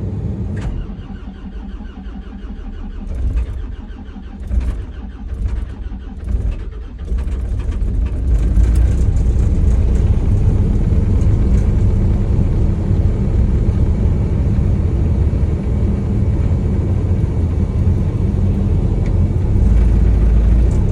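Diesel engine cold-started at minus 13 without its block heater: the starter cranks for several seconds with a few sputtering firings, the engine catches about seven seconds in, and then it runs steadily and loudly.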